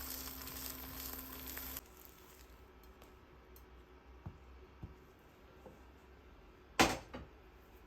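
Food sizzling in a frying pan, which cuts off abruptly about two seconds in; then a few light clicks and one sharp loud clack near the end.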